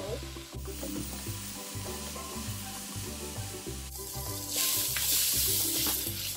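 Mixed vegetables sizzling in a hot wok as they are stir-fried with a wooden spatula; the sizzle swells to a loud hiss about four and a half seconds in and then eases. Background music with a steady bass line plays throughout.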